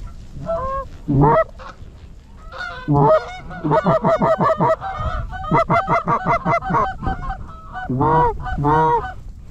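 Geese honking, several separate honks with a fast run of rapid clucking calls through the middle.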